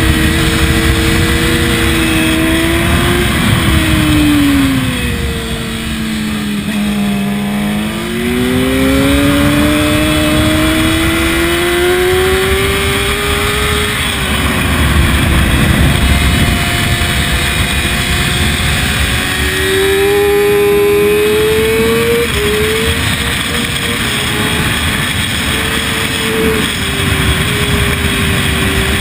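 Sport bike engine heard from the bike itself, over heavy wind rush: its pitch falls as it slows for a corner about four seconds in, then climbs steadily as it accelerates out. A second pull later on is broken by quick gear changes near the end.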